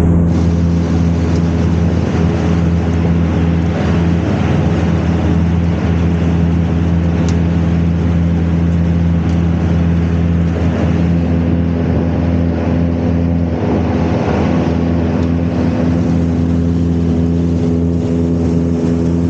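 Tractor-powered silage blower running steadily, filling a tower silo with chopped forage; an even, unchanging machine drone.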